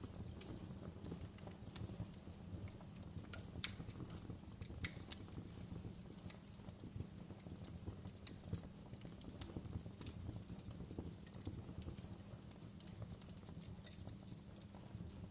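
Wood fire burning in a fireplace, crackling with scattered sharp pops over a low steady rumble; the sharpest pop comes about three and a half seconds in.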